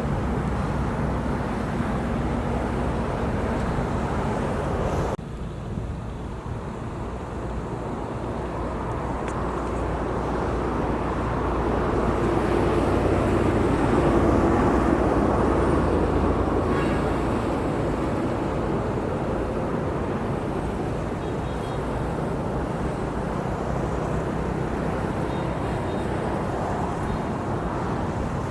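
Outdoor countryside ambience with a steady low rumble; a motor vehicle passes, its engine growing louder to a peak about halfway through and then fading. The background drops abruptly about five seconds in.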